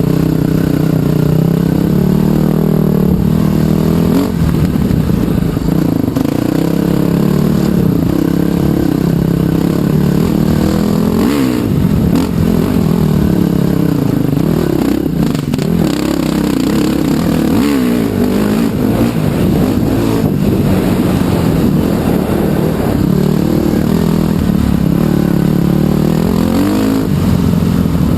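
Trail bike engine running under way, its pitch rising and falling again and again as the throttle opens and closes.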